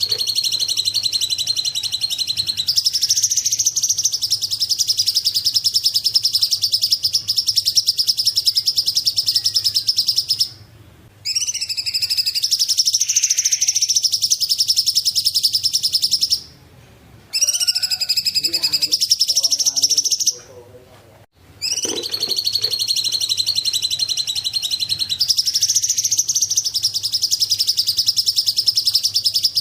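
A cungkok bird singing long, very rapid high trills, each held for several seconds, with brief pauses between phrases. The same trill phrase comes round again, as in a looped recording.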